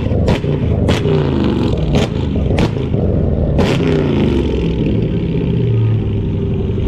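Car engine running and revving, the pitch rising and falling, with five sharp cracks in the first four seconds, then a steadier engine sound.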